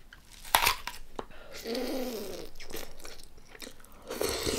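Close-miked eating: a sharp crisp crunch of biting into a raw spring onion, then chewing and crunching of the onion and green papaya salad, with a brief hum midway.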